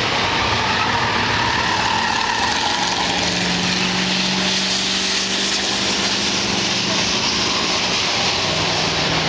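Race car engines running around the track under a steady wash of noise, one engine's pitch falling about two seconds in as a car goes by.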